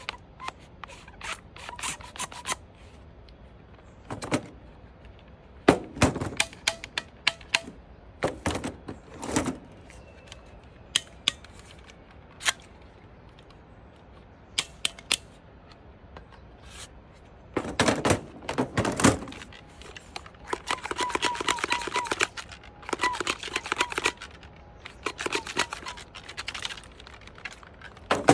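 Clicks, clacks and rattles from a plastic toy blaster being handled and worked, irregular and sometimes in quick clusters.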